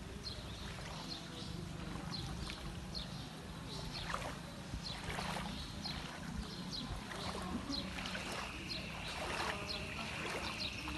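Water flowing steadily, with short high chirps repeating throughout and a steady high whine joining about eight seconds in.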